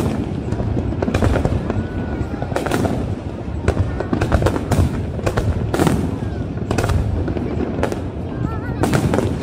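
Aerial fireworks bursting without pause: many sharp bangs and crackles, one after another, over a continuous low rumble of distant detonations.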